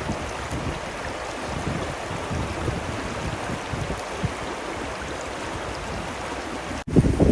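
River water flowing steadily, with wind rumbling unevenly on the microphone. Near the end the sound cuts out for an instant and comes back with louder wind gusts.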